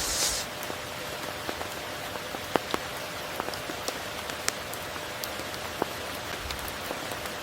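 Steady rain: an even hiss with scattered sharp drops striking close by, and a brief swell of higher hiss at the very start.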